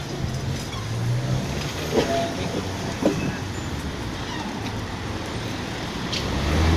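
Steady vehicle noise, with short clanks about two and three seconds in and a low engine rumble growing louder near the end.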